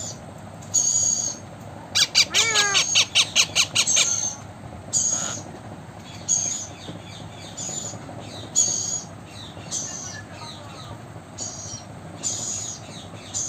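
Blue Indian ringneck parakeet calling with high, shrill squawks: a rapid run of short calls about two seconds in, then single calls every second or so.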